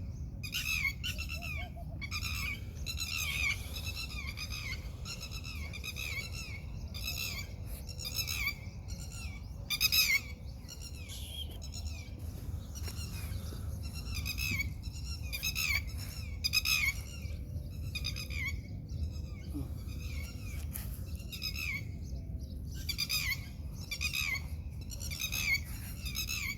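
Baby birds calling: short high calls one after another, several a second, over a low steady rumble.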